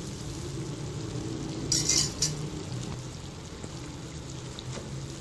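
Moong and urad dal fritters sizzling in hot cooking oil in a frying pan, fried through and being lifted out with a fork. A brief louder burst of sizzle comes about two seconds in.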